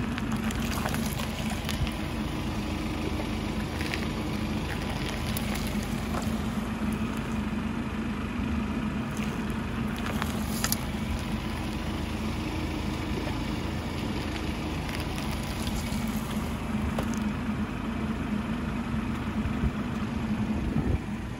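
Car engine idling steadily close to the ground, with scattered small crackles and pops, one sharper about halfway through, as a tyre rolls over and crushes water beads and other small objects.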